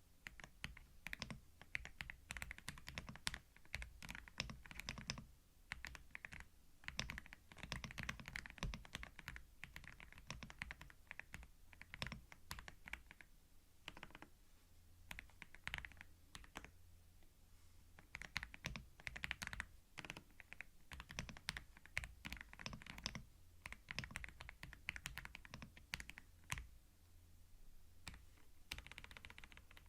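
Typing on a computer keyboard, recorded binaurally: runs of quick keystrokes broken by short pauses.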